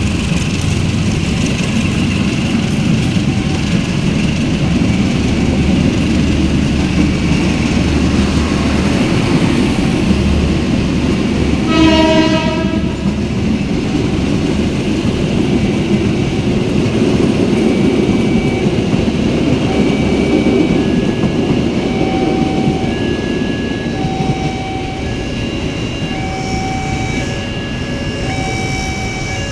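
Diesel-hauled freight train of fuel tank wagons rolling with a steady rumble; the locomotive sounds its horn once, briefly, about twelve seconds in. A few seconds later short high tones begin repeating at a steady pace behind the rumble.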